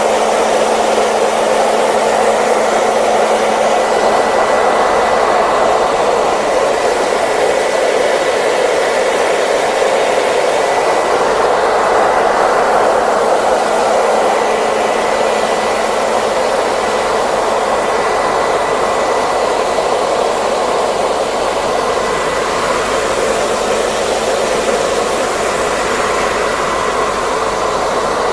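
Hair dryer running steadily: a continuous airy rush of blown air with a faint steady whine above it.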